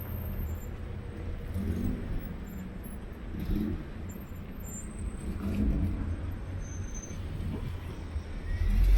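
Road vehicle noise: a steady low rumble of a car on the move, with small swells every second or two.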